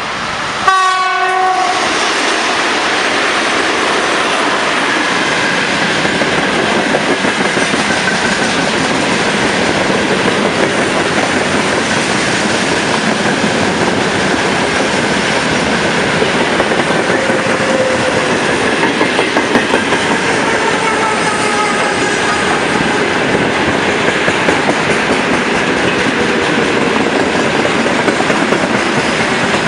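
A VL80S electric locomotive sounds its horn in one short blast about a second in. It then passes close by hauling a freight train of tank cars, with a loud, steady rumble of wheels and rhythmic clatter over the rail joints. Faint wheel squeals come and go later on.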